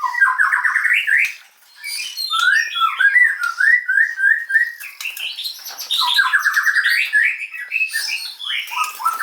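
Oriental magpie-robin (kacer) singing a varied song of fast repeated notes, rising and falling whistles and trills, with a short pause about a second and a half in.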